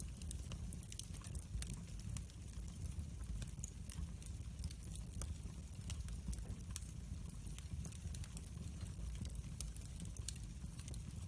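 Wood fire burning, with frequent sharp crackles and pops over a low, steady rumble of the flames.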